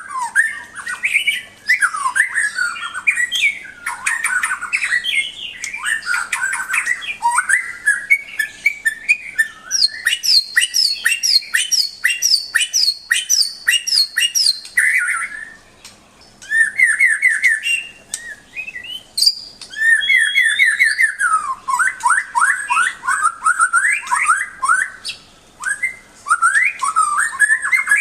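White-rumped shama (murai batu) singing a long, varied song of loud whistled phrases and quick trills. About ten seconds in it gives a fast run of repeated notes, with brief pauses a few seconds later.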